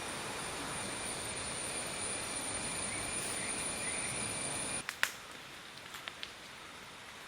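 Steady forest ambience: an even rushing hiss with a thin, high-pitched insect drone. About five seconds in it cuts to a quieter stretch with a sharp click and a few faint ticks.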